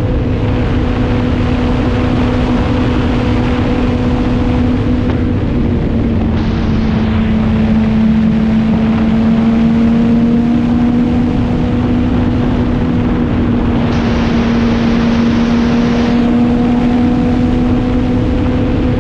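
Motorcycle engine running at a steady cruising speed while riding, its pitch holding nearly level, with wind rushing over the microphone. A louder hiss rises briefly about six seconds in and again for about two seconds near fourteen seconds.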